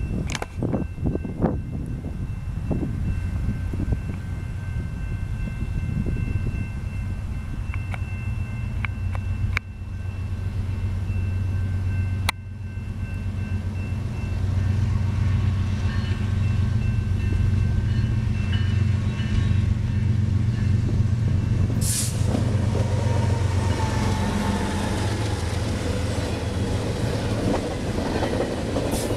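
Diesel-hauled double-stack container train approaching and passing: a steady low locomotive rumble with the horn sounding in the distance, then, about twenty seconds in, the locomotives go by and the container cars rumble and clatter past.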